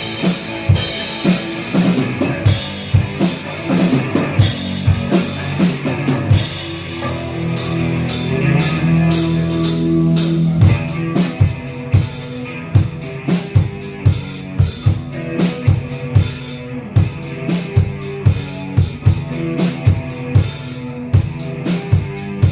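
Live punk rock band playing an instrumental passage: a steady drum kit beat with bass drum and snare under electric guitar and bass. A held chord swells in the middle, then the drums drive on with regular hits.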